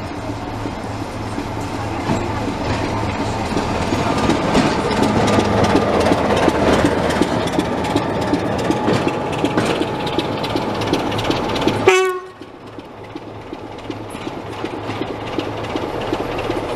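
A train running on the heritage line, its wheels rattling over the track over a steady low engine hum, growing louder towards the middle. About two-thirds of the way through there is a brief high note, and then the sound drops suddenly to a quieter running noise.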